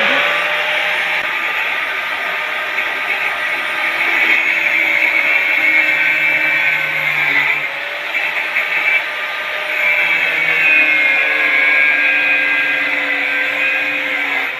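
Handheld electric power tool running at full speed, its motor whining steadily. The pitch sags about eight seconds in and again near the end as it bites into the work, then recovers.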